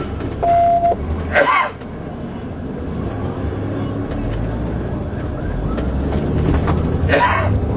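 Steady car engine and road noise from inside a moving vehicle, with a short single-pitch beep about half a second in and two brief snatches of a voice, one about a second and a half in and one near the end.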